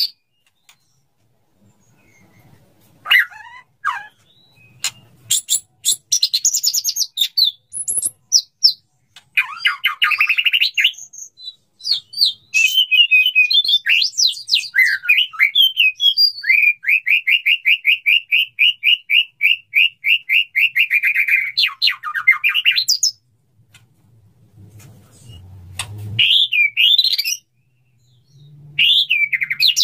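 Male white-rumped shama singing to court a female: varied whistled phrases mixed with sharp clicks, with a long run of rapidly repeated notes past the middle, broken by short pauses.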